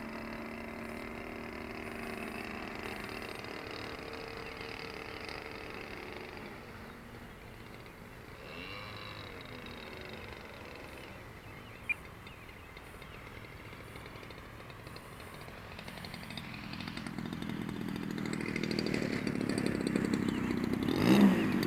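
Radio-controlled model airplane motor and propeller droning in flight, its pitch sliding up and down as it passes, growing louder over the last few seconds as it comes in close.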